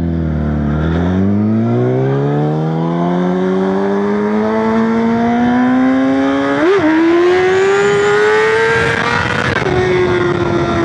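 Yamaha R6 inline-four sport-bike engine heard from the rider's seat, pulling in one long acceleration with its pitch rising steadily for about nine seconds. There is a brief blip about two thirds of the way through. Near the end the pitch drops suddenly as the throttle closes or the bike shifts, then it runs on steadily.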